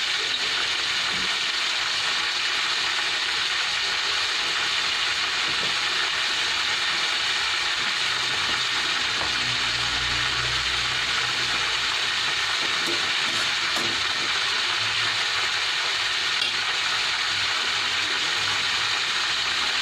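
Steady sizzle and hiss of food frying in pans on a gas stove, with sliced bitter gourd (ampalaya) sautéing in a steel wok.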